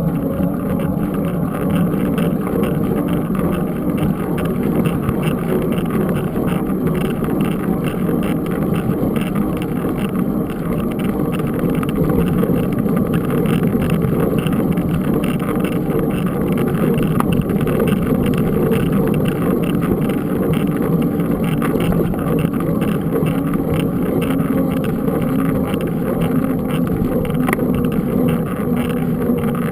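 Steady rumble and rush of wind on the microphone of a camera carried on a moving mountain bike.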